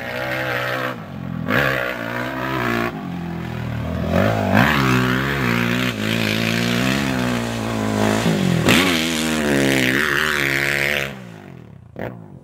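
Honda 450 dirt bike engine revving hard, its pitch climbing and dropping several times as it is worked through the throttle and gears. Near the end the throttle is cut and the engine note falls away sharply.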